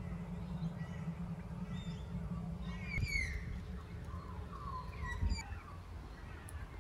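Birds calling: scattered short chirps and a few gliding calls, with a falling call about three seconds in and a warbling phrase a little later, over a steady low rumble.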